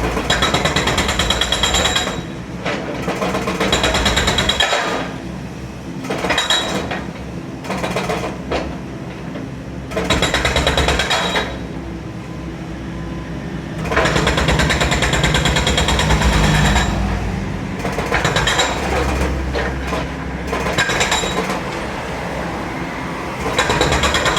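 Demolition breaker hammering concrete in repeated rapid-fire bursts, each lasting one to three seconds, with a lower steady machine rumble in the pauses between bursts.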